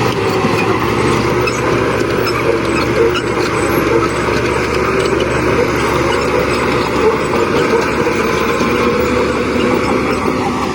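Heavy construction machine's diesel engine running steadily under load, a loud continuous drone without pauses.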